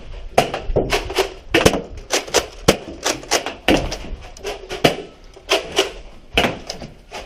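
An irregular series of sharp knocks and thuds, roughly two a second, with muffled activity between them.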